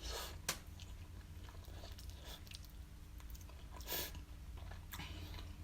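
Close-up chewing and biting of a halal snack pack of doner kebab meat, melted cheese and sauced chips: irregular wet mouth clicks and smacks, the loudest about four seconds in.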